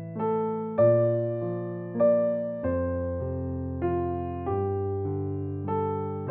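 Background music played on electric piano: gentle chords struck about once a second, each fading away.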